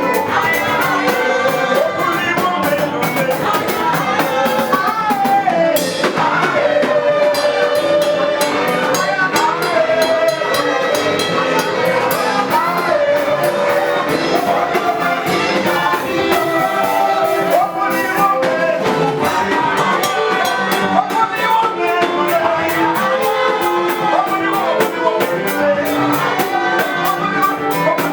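Live gospel praise music from a band with a drum kit and singers, playing an upbeat dance beat.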